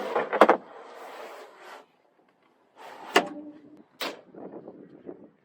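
Truck cap camper's bed platform and panels being slid and set in place: a sliding scrape followed by three sharp knocks.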